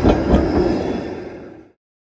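Helsinki tram running on its rails, with two sharp clacks of the wheels over rail joints. The running noise then fades and cuts off about three-quarters of the way through.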